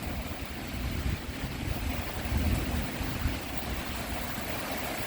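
Heavy wind-driven rain pouring down in a steady hiss, with gusts of wind buffeting the microphone in an uneven low rumble.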